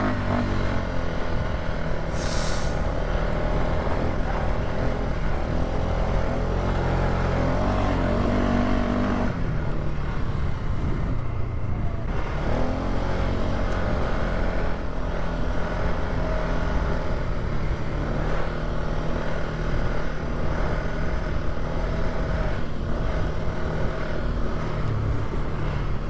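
Polaris ATV engine running steadily along a dirt trail. Its pitch shifts as the throttle changes, and it drops off for a couple of seconds near the middle before pulling again.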